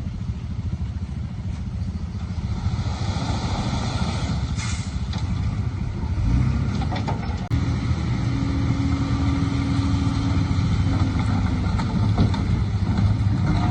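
Heavy earthmoving machinery's diesel engine running continuously. It grows a little louder about six seconds in, and a steady higher whine sits over it from about halfway until near eleven seconds.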